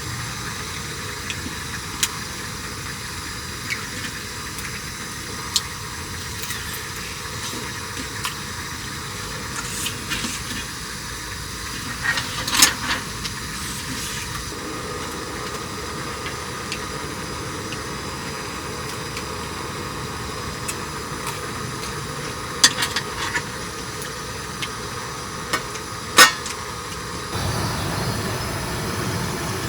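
A steady hiss with a few sharp clicks and knocks scattered through it, and a low rumble that comes in near the end.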